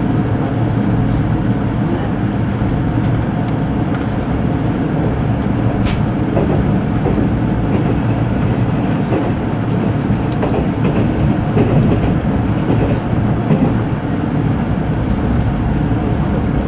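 Running noise inside a JR 485 series limited express car: a steady rumble of wheels on the rails and running gear, with a few faint clicks.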